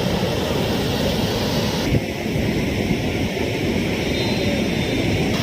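Overflowing tank water rushing over the spillway in a steady loud roar, its hiss turning duller about two seconds in.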